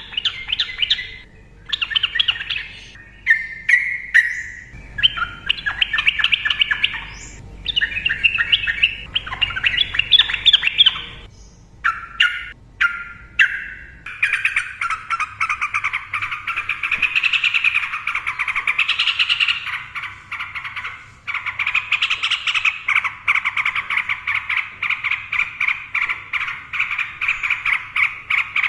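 Sooty-headed bulbul singing: short chattering song phrases with brief gaps for about the first half, then one long unbroken, rapid rolling chatter from about halfway on.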